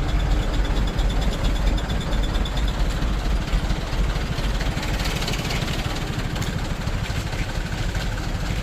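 Vehicle engines in slow, queued traffic running and idling steadily, a deep continuous rumble.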